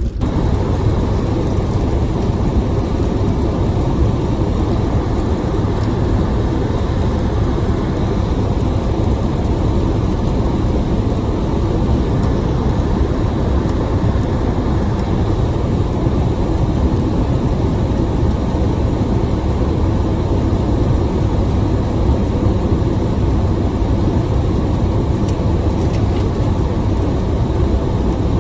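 Storm wind and heavy rain rushing over a phone microphone in a car, a steady, heavy rumble that starts suddenly and never lets up.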